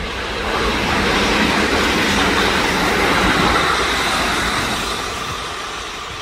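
Kintetsu limited express electric train passing at speed on the line, its wheels running on the rails. It grows louder to a peak in the middle as it goes by, then fades as it moves away.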